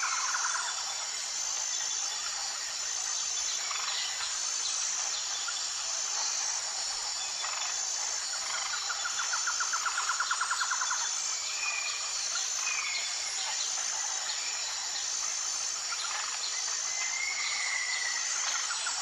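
Tropical rainforest ambience: a steady high insect drone with a repeating pulsed note, overlaid by bird calls. There are several short whistled notes, and a rapid pulsing trill lasts about two seconds near the middle.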